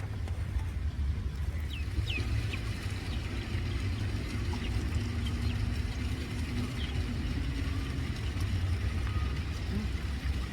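A steady low rumble throughout, with a few short high chirps about two seconds in and again near the middle.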